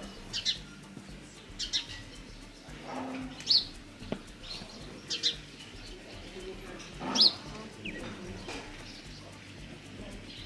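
Birds chirping outdoors: short, high chirps repeated every second or two, some sliding quickly up or down in pitch.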